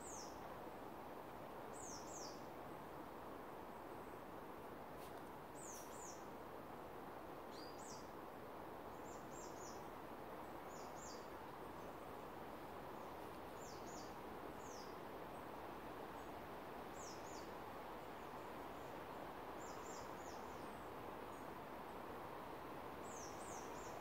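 Small birds calling: short, thin, high-pitched notes that drop in pitch, often in quick pairs, repeated every second or two over a steady background hiss.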